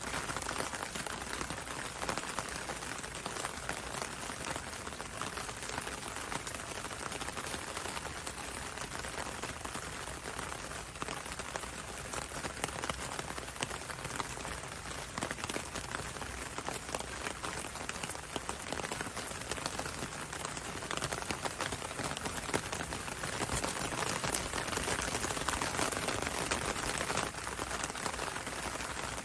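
Steady gentle rain pattering on a window and on the road outside, a dense even patter of drops that swells slightly near the end.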